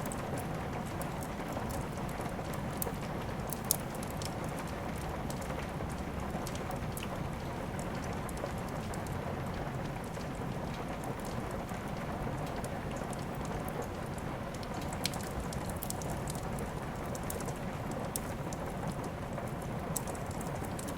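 Steady rain mixed with a wood fire in a fireplace, with occasional sharp crackles and pops; the loudest pop comes a little under four seconds in.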